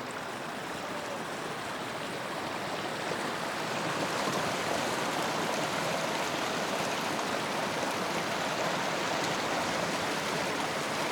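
Steady rush of running water. It grows louder over the first few seconds, then holds even.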